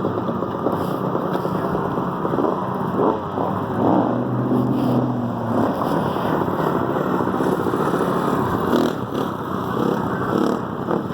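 Dirt bike engine running, its revs rising and falling several times as the throttle is worked.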